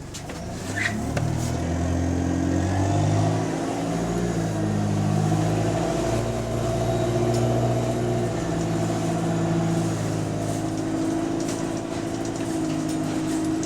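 Bus diesel engine pulling away loudly, its note climbing and dropping back several times as it changes up through the gears, with the harsh extra noise of an exhaust leak.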